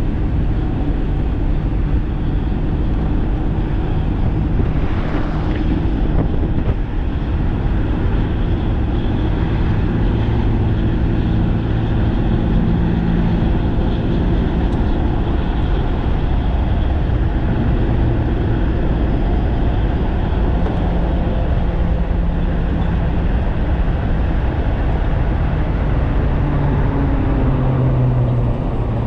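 Steady wind rush buffeting the microphone as a 1500-watt DIY electric bike is ridden at high speed, with a low hum under it.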